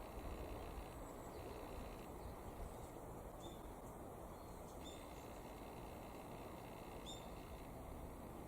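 A few short, high bird chirps, about three in all, faint over a steady low background hiss.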